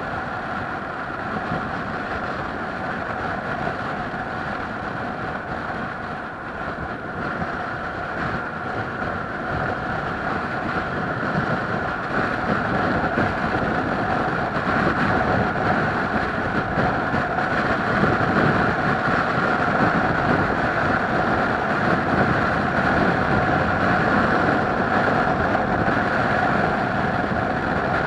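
A vehicle's motor running steadily under a continuous noise, with a constant droning hum, growing louder about twelve seconds in.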